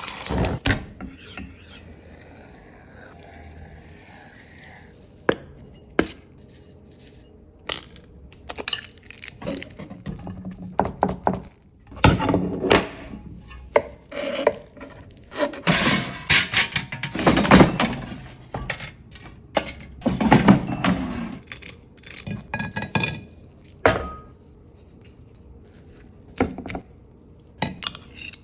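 Food-preparation clatter: irregular clicks, knocks and clinks of utensils and dishes, with a few longer scraping or mixing noises in the middle.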